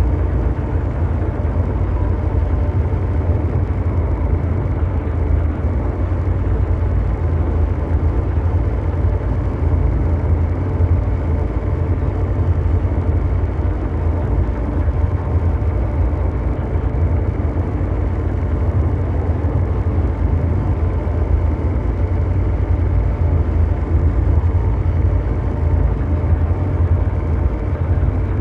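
Continuous ambient mechanical drone: a deep, steady brown-noise rumble with faint steady hum tones above it, unchanging throughout.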